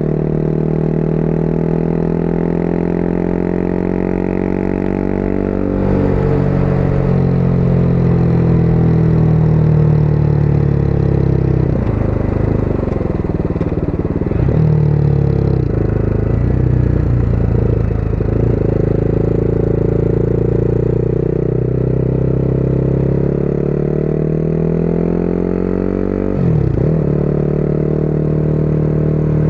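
Motorcycle engine running under way, its pitch sinking and rising as the throttle changes, with a short break in the note about three seconds before the end, after which it holds steady.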